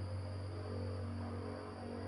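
Steady wind-sound ambience: an even hiss under a constant low hum, unchanging throughout.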